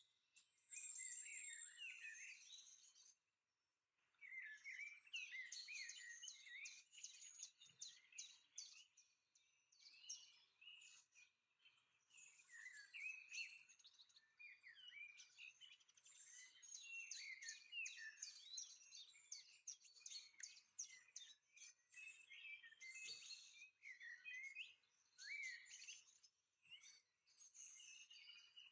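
Faint bird chirping and twittering in quick phrases, broken by brief pauses.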